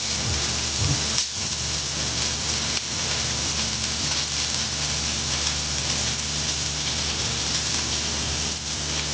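Steady, dense hiss with a low hum underneath.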